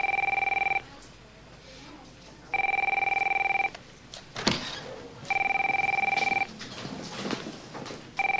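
Electronic office telephone ringing: steady two-tone rings about a second long, repeating about every two and three-quarter seconds, three full rings and the start of a fourth.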